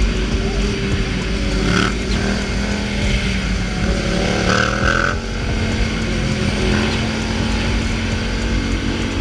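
Motorcycle engine running steadily under wind noise, its revs rising briefly about four seconds in.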